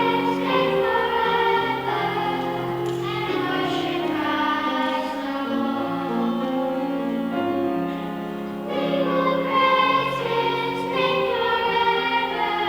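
Choir singing with accompaniment, several voices holding sustained notes that change every second or so.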